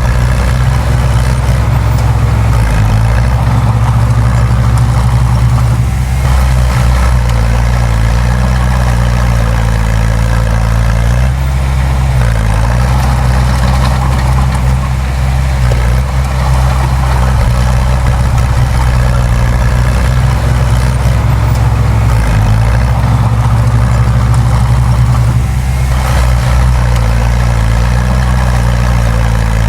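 Heavy diesel engine of earth-moving machinery running steadily. Its pitch dips and shifts slightly a few times.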